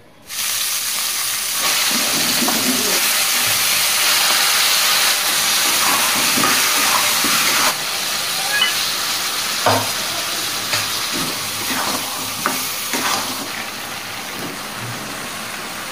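Oil sizzling loudly in a metal kadai as onions, potatoes and spices fry, starting abruptly just after the start and dropping a step about eight seconds in. In the second half, scattered knocks and scrapes of a metal spatula stirring against the pan.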